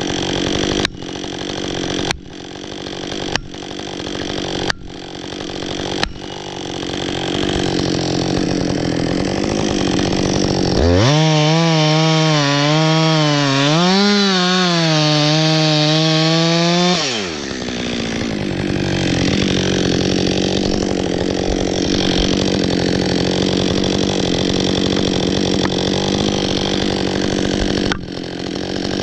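Husqvarna 562 XP two-stroke chainsaw running, broken by several abrupt jumps in the first few seconds. About eleven seconds in it goes to a loud full-throttle pitch that wavers for about six seconds, as when cutting into wood. It then falls back to a lower, steadier running.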